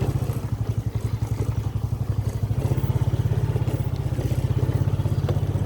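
A small engine running steadily with a fast, even beat, a little louder from about two and a half seconds in.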